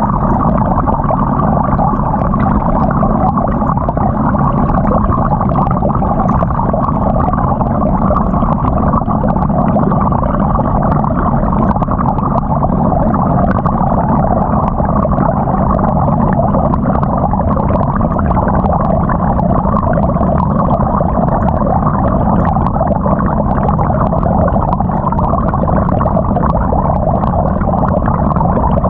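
Muffled, steady churning and sloshing of water and laundry inside a GE GTW220ACKWW top-load washing machine, heard from inside the tub at the agitator.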